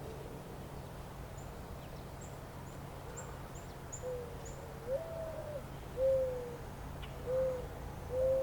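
A bird's low hooting calls: a series of about five short hoots, each falling slightly in pitch, about one a second, starting about halfway through. Faint high chirps of small birds come earlier, over a steady low rumble.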